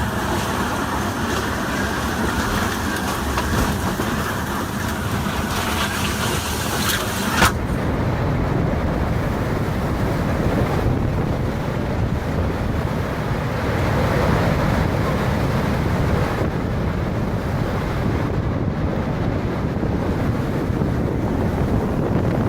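Storm wind blowing hard across the microphone: a steady rushing noise with low buffeting. About seven seconds in a sharp click marks an abrupt change, after which the sound is lower and duller.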